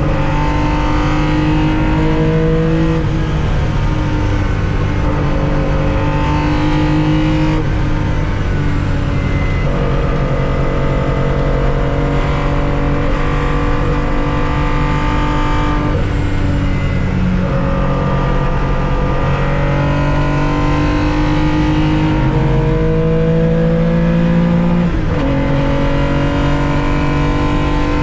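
1965 Porsche 911 2.0's air-cooled flat-six engine, heard from inside the cockpit at racing speed, pulling hard with the pitch climbing, broken several times by gear changes.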